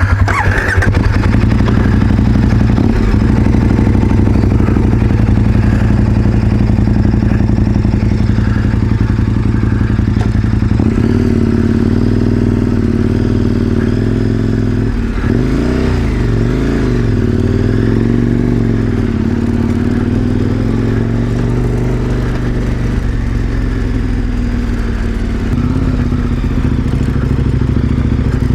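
KTM 1090 Adventure R's V-twin engine running under way. It is steady at first, shifts to a new pitch about ten seconds in, and a few seconds later its pitch rises and falls briefly.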